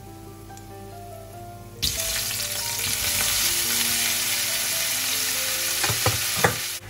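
Wild mushrooms dropped into hot oil in a stainless steel frying pan, sizzling loudly from about two seconds in, with a couple of metal clinks near the end as the colander is set down on a pot. The sizzle cuts off suddenly just before the end.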